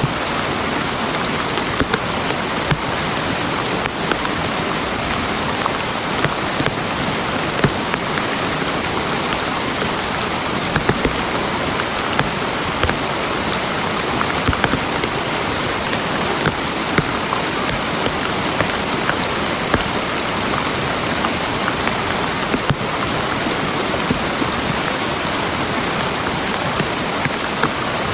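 Heavy rain falling steadily, with many sharp, louder drop hits scattered through it.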